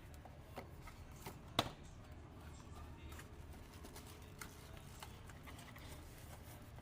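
Scattered light clicks and taps from handling an object, with one sharper click about one and a half seconds in, over a low steady hum.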